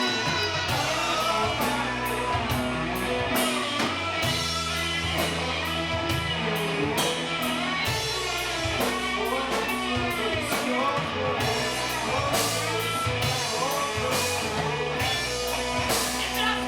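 Rock band playing: a singer's voice over guitar, drum kit and held low bass notes, with a steady drum beat.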